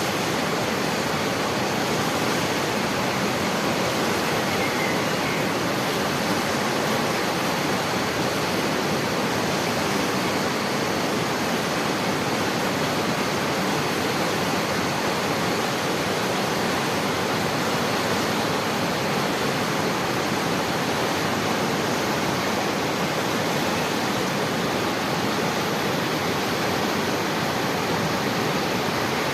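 Steady rushing water: an even, unbroken roar of falling or flowing water.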